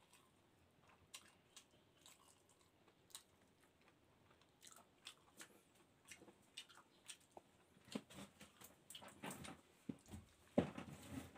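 A person eating grouper head and rice by hand: soft chewing with small wet clicks and lip-smacks. The sounds are sparse at first and grow busier and louder over the last few seconds.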